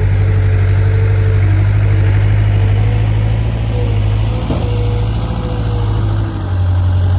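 Skid steer loader's engine running steadily while the machine pushes a large fallen tree, with a whine that steps up and down in pitch.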